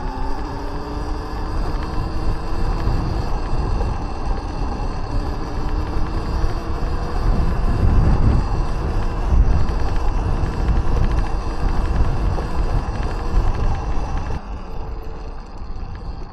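Electric dirt bike on a trail: the motor's whine rises in pitch as it accelerates in the first couple of seconds. Heavy wind buffeting and a rough rumble on the microphone follow, loudest about halfway through and easing near the end.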